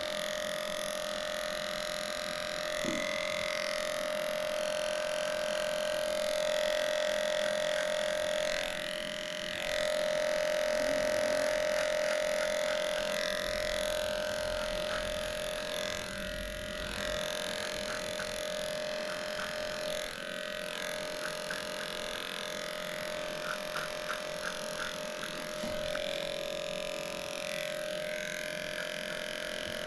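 Electric dog-grooming clippers running with a steady hum as they shave through a matted coat. The hum changes briefly a few times, and there are a few light clicks in the second half.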